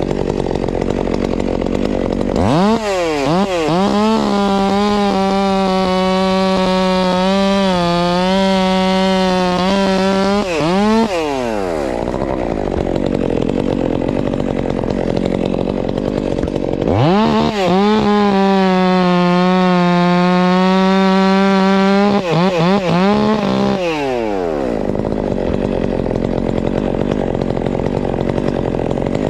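Two-stroke chainsaw run up to full throttle and held for about nine seconds, its pitch dipping slightly as it works through a cut, then let back down to idle; it revs up and cuts a second time for about seven seconds later on. A steady engine noise runs underneath throughout.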